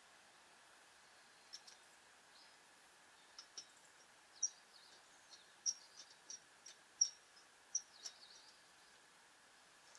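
Scattered short, high chirps of small birds, a dozen or so irregular calls, over faint steady background hiss.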